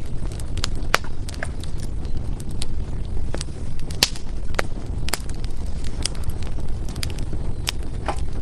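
Burning firewood crackling: irregular sharp pops and snaps over a steady low rumble, the loudest pops about four and five seconds in.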